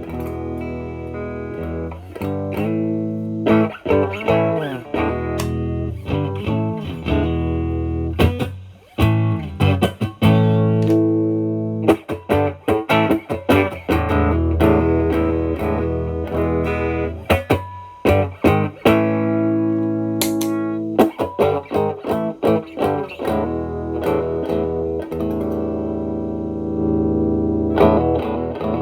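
Fender Stratocaster played through a Marshall Valvestate amp, mostly on its clean channel: picked blues-style notes and chords, with a few brief pauses.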